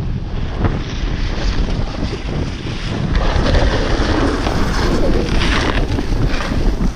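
Wind buffeting the microphone: a steady low rumble and rush, growing louder and hissier from about three to six seconds in.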